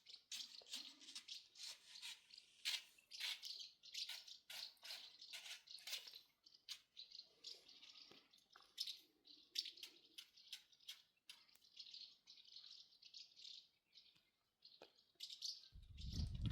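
Faint trickling and dripping water: a steady run of small drips and splashes.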